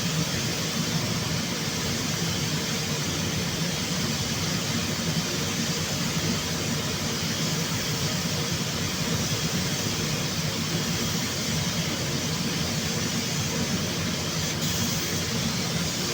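Steady machine noise: a low hum under an even hiss, unchanging throughout.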